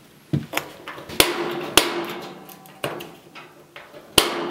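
Gas heater's piezo igniter clicking repeatedly as the burner is being lit: about six sharp clicks, uneven in spacing, several followed by a short ringing decay.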